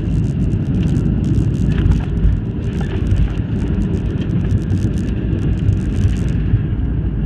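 Cabin noise of a Boeing 737 airliner during landing: a loud, steady low rumble of engines and airframe. Over it runs a fast crackling rattle that stops about six seconds in.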